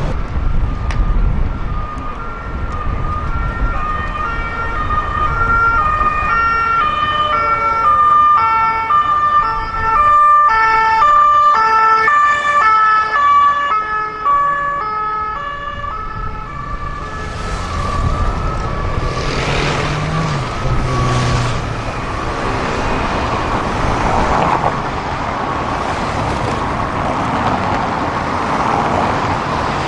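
Emergency vehicle siren sounding a hi-lo tone, stepping back and forth between two pitches about twice a second. About halfway through it fades out under steady traffic and road noise.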